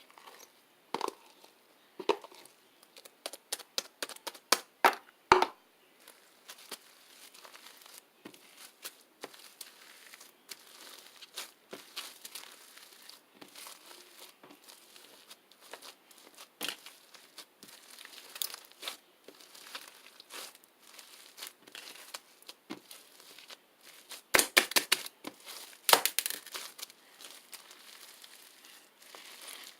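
Slime being squeezed, stretched and poked by hand, giving runs of sharp clicks and crackles. The loudest clusters come in the first few seconds and again about four-fifths of the way through, with softer crackling between.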